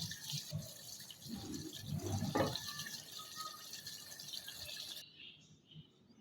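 Chicken frying in a spice-and-onion-tomato paste in a pot: faint sizzling and bubbling with a few irregular soft knocks, cutting off abruptly about five seconds in.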